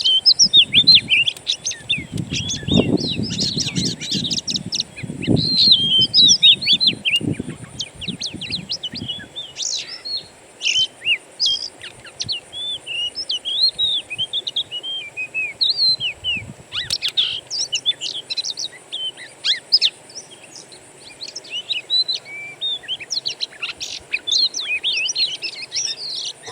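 Several wild songbirds chirping and twittering at once in a dense, overlapping chorus of quick high notes, over a steady high-pitched buzz. A low rumble sits under the birds for roughly the first third, then stops.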